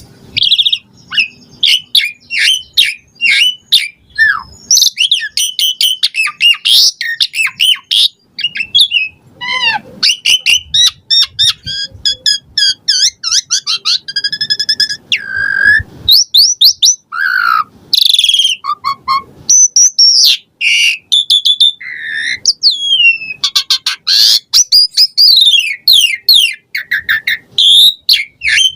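Asian pied starling (jalak suren) singing nonstop. It is a fast, varied stream of chirps, rapid repeated notes and rising and falling whistles, worked through with phrases borrowed from other birds' songs.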